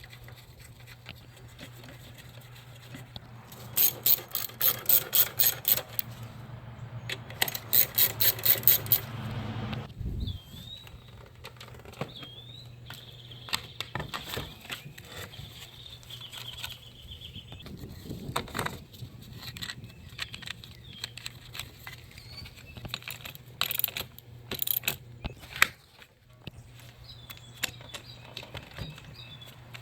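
Ratchet wrench clicking in two quick runs of about four or five clicks a second while fasteners are run back in. Later come scattered light knocks and faint high chirps over a steady low hum.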